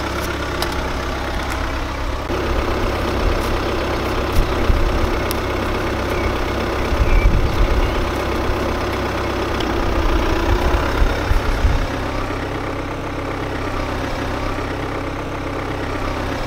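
Car engine idling steadily, with a stretch of louder, uneven low rumbling in the middle.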